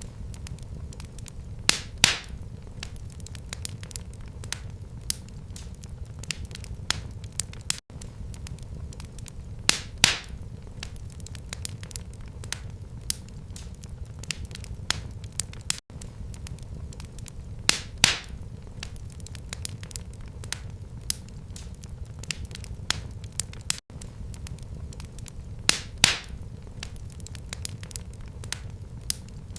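Wood fire burning in a fireplace: a steady low rumble of flame under many small crackles, with a louder pop about every eight seconds.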